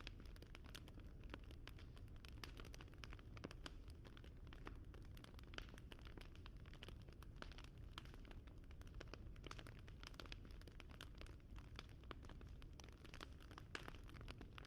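Bonfire crackling faintly: a steady scatter of small, irregular pops and snaps over a low rumble.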